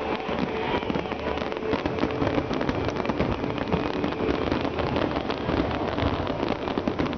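Large fireworks display: a dense, continuous crackle of many small pops and bangs, over the noise of a big crowd.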